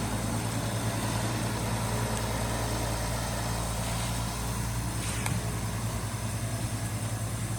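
Diesel tractor engine idling steadily with an even, low pulse, with one brief click about five seconds in.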